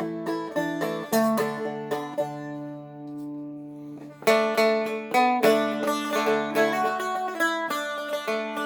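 Seagull Merlin M4, a four-string fretted dulcimer-style instrument, played with a pick: melody notes over ringing drone strings. About two seconds in a chord is left to ring and fade, then brisk picking and strumming starts again just after four seconds.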